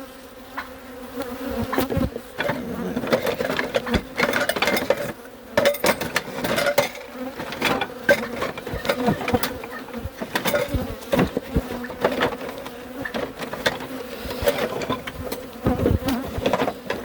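Honeybees buzzing around an open hive in a steady hum, with frequent short knocks and clicks throughout.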